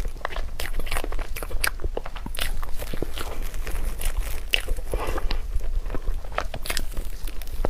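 Close-miked mukbang eating sounds: chewing and biting, with many irregular wet clicks and smacks of the mouth.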